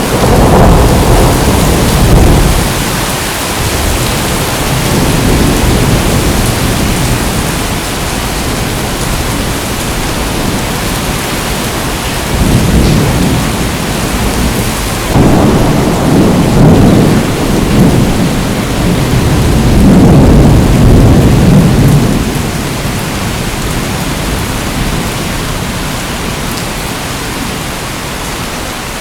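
Steady rain with rolling low thunder that swells several times, at the start and repeatedly through the middle, then eases near the end.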